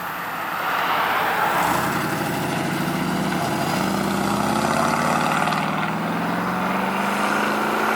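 A car engine accelerating hard from a roll, its pitch climbing steadily from about two seconds in, with a brief dip in pitch partway through.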